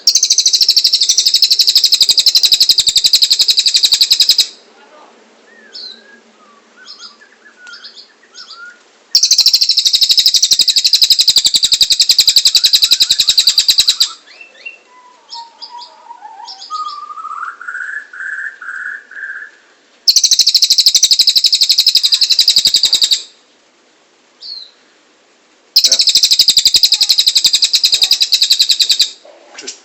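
Cililin bird singing: loud, very rapid high trills lasting three to five seconds, repeated four times, with softer short chirps and a lower warbling phrase in the gaps between them.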